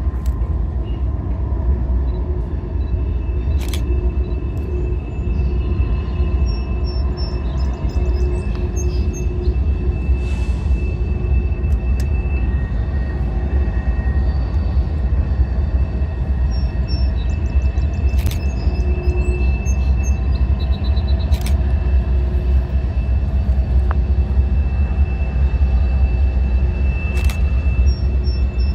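Train rolling past: a steady heavy rumble with a few sharp clicks scattered through it.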